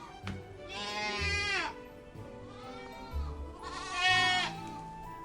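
Two long bleats from a farm animal, one about a second in and one about four seconds in, each dropping in pitch as it ends. Steady background music with a low bass line plays underneath.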